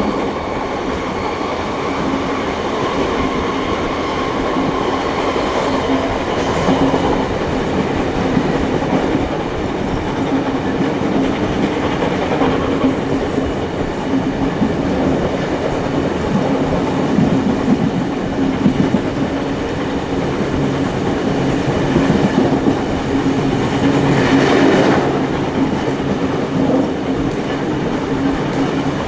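A steam-hauled heritage passenger train running along the line, heard aboard a carriage: steady wheel and rail noise with clickety-clack over a constant hum. A brief swell of higher sound comes about twenty-four seconds in.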